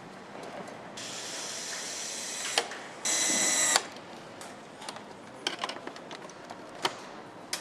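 A power tool runs twice: a steady hissing whir for about a second and a half ending in a click, then a shorter, louder high-pitched whine that stops with a click. Scattered clicks and small knocks of hand work on metal parts sound around it.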